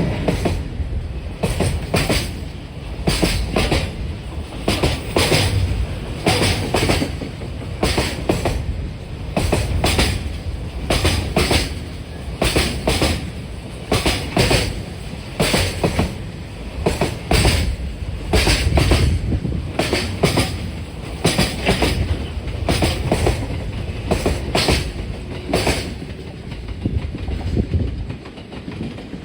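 Train wheels clattering over rail joints: a steady clickety-clack of repeating paired clacks over a low running rumble, which cuts off suddenly at the end.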